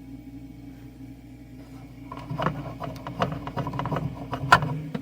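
Mini fridge compressor humming steadily, running again after the thermostat was cycled; the owner suspects the thermostat or its worn contacts. From about two seconds in, irregular clicks and knocks of handling, with one sharp knock near the end.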